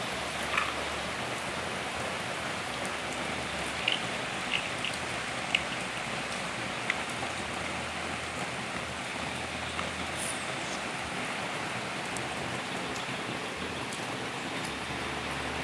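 Steady rain-like hiss with a few light clicks and taps scattered through the first half.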